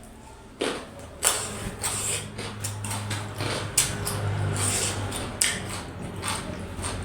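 Close-miked eating: chewing and wet mouth smacks of dhido and curry, heard as irregular clicks and squelches, with a low hum in the middle.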